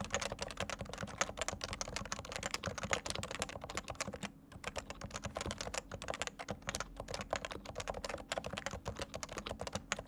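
Fast typing on a Leopold FC980C Topre (electrostatic capacitive) keyboard whose switches have been fully lubricated: a dense, continuous run of keystrokes with a brief lull about four seconds in.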